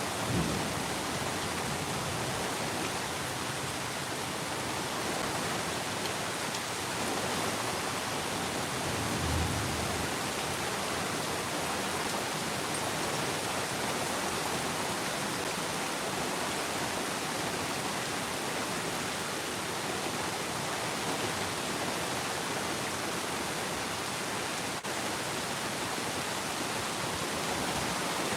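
Steady heavy rain falling, an even hiss with no let-up. A brief low thump about nine seconds in.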